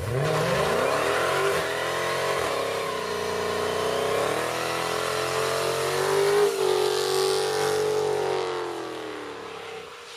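Dodge Charger SRT Hellcat's 6.2-litre supercharged V8 revving up in the first second and held at high revs during a burnout, with the rear tires spinning. The engine note wavers and dips a couple of times, then tails off near the end.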